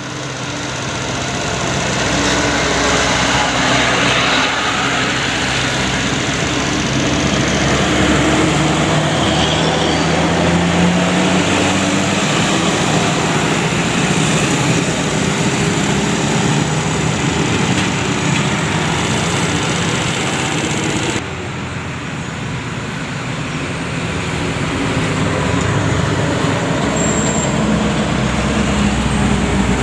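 Engines of buses and trucks running in road traffic, a steady mix of engine hum and traffic noise. The sound changes abruptly about two-thirds of the way through, then builds back up.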